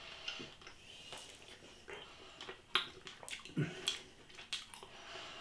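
Wet chewing and small mouth clicks of a man eating a piece of roast beef, with a brief hum about three and a half seconds in.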